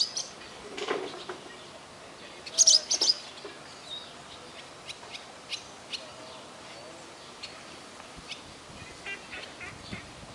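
Birds chirping in short, sharp bursts, loudest in a quick cluster about two and a half to three seconds in, with scattered faint clicks over a steady background hiss.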